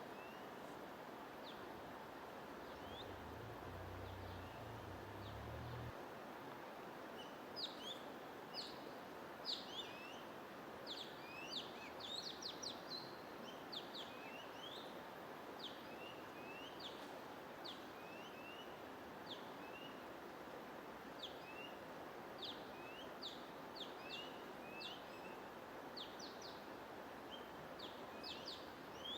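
Small birds chirping in rapid short notes, many a second, starting about seven seconds in, over a steady soft hiss like white noise or running water. A brief low rumble sounds a few seconds in.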